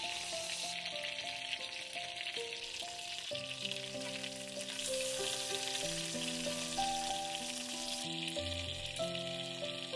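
Food sizzling steadily as it fries in a pan, under background music of held notes and chords.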